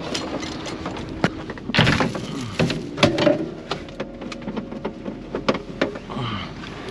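Irregular knocks, clicks and clatter of objects being handled and set down, with the loudest knocks about two and three seconds in.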